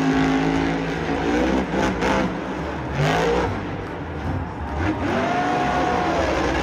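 Motor-vehicle engine sound effect, a steady rumble with several revs whose pitch rises and falls, dubbed over the toy monster truck.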